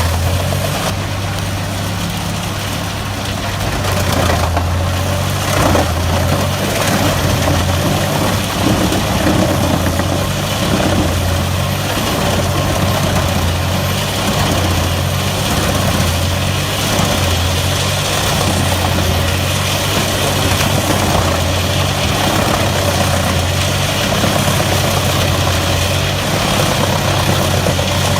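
Wood chipper's diesel engine running steadily, with a low hum under a broad mechanical noise.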